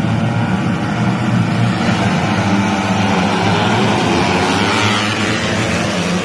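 Tuned four-stroke underbone road-race motorcycles running at high revs, several engines overlapping, the sound swelling as they pass about four to five seconds in.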